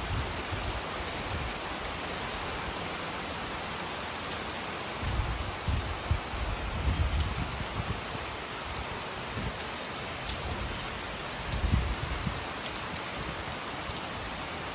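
Steady rain falling, an even hiss of drops, with low rumbles rising twice, from about five to seven seconds in and again near twelve seconds.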